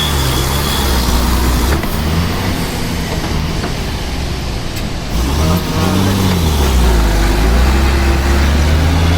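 Truck engine running under way, a steady low engine note. About six seconds in the pitch drops and then climbs back up as the engine slows and revs again.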